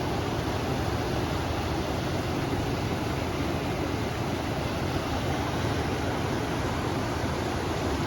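Steady rushing of river water mixed with wind noise, an even, unbroken roar heaviest in the low range.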